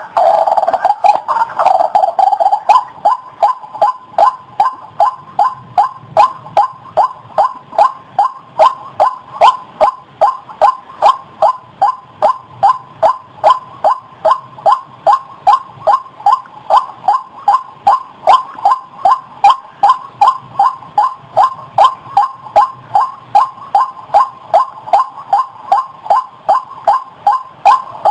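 White-breasted waterhen calling: a denser, louder stretch of calls at first, then settling about two seconds in into a steady, monotonous run of short 'kruak' notes, about two a second.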